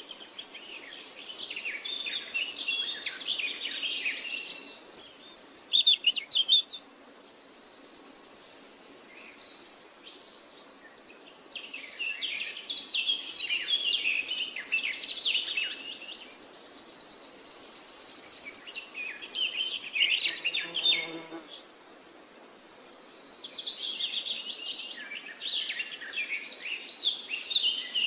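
Birdsong ambience: bursts of many quick chirping calls every few seconds, over long stretches of a high, rapid trill, with one short lower-pitched call about three-quarters of the way through.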